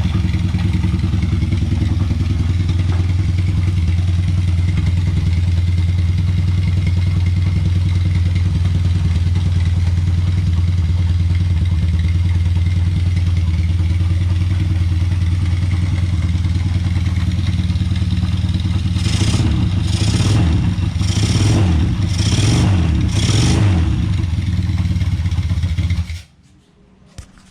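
Custom two-cylinder Honda Revo underbone motorcycle engine, with one carburettor and two spark plugs, running with a deep rumble. A series of about five quick throttle blips comes after about 19 seconds. The engine then cuts out suddenly, stalling.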